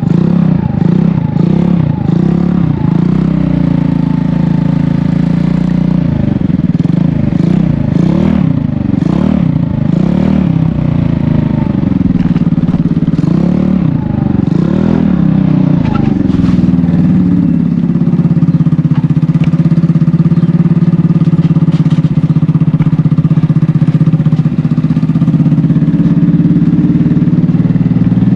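GY6 single-cylinder four-stroke scooter engine in a Honda Ruckus, running through an aftermarket eBay exhaust with the silencer insert removed. For the first half the engine speed rises and falls repeatedly with the throttle, then it holds a steady speed.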